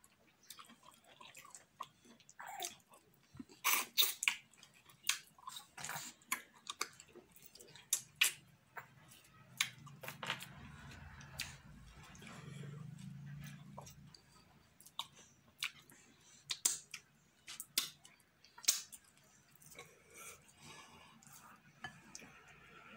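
Close-up chewing and wet mouth smacks of a person eating fufu with slimy okro and ogbono soup by hand, in many short sharp clicks. A low steady hum sits under it for a few seconds near the middle.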